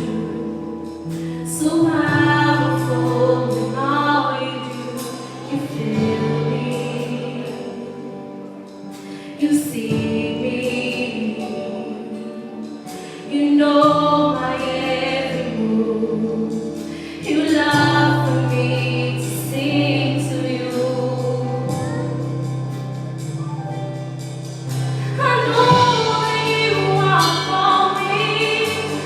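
Gospel-style singing with accompaniment, carrying several long held notes over a steady low sustained part.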